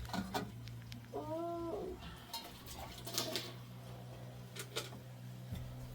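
A cat meows once, a single rising-then-falling call about a second in. A few light clicks and knocks are scattered around it.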